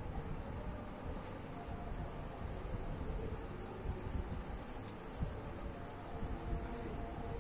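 A colouring tool rubbing on paper in quick, regular back-and-forth strokes, as an area of a drawing is filled in.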